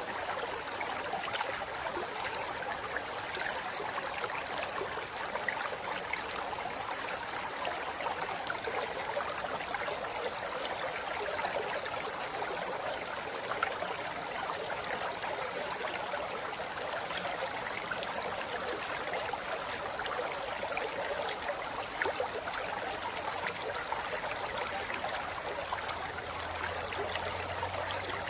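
A shallow river running over rocks: a steady rush of flowing water with fine babbling and trickling.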